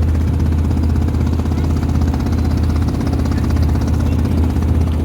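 Boat engine running steadily with a low, even hum and a fast, regular pulse.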